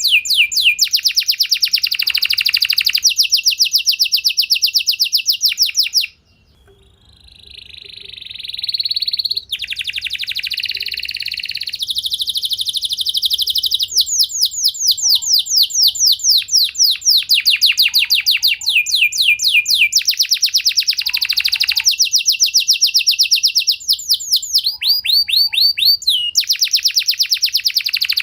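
Domestic canary singing long, fast trills of rapidly repeated high notes, with a short quieter rising phrase about six seconds in before the rolls resume.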